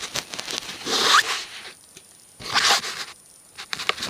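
Handling noise: a few short, zipper-like scraping rasps, about a second in, again around two and a half seconds, and near the end.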